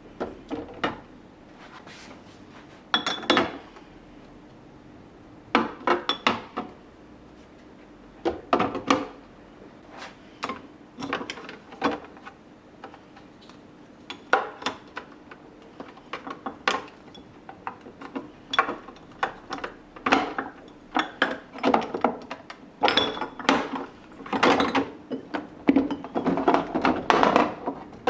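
Plastic storage containers and kitchen items being handled and set down while a refrigerator is organised: an irregular run of clacks, knocks and clatters, busier in the second half, over a faint steady hum.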